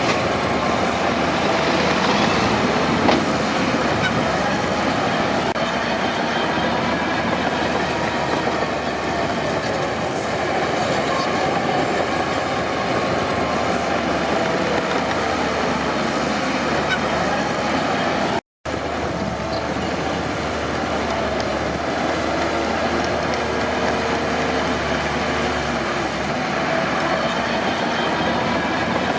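Crawler bulldozer working, its engine running under load while the steel tracks clank and squeal with a wavering, high squeal. The sound cuts out completely for a split second about two-thirds of the way through.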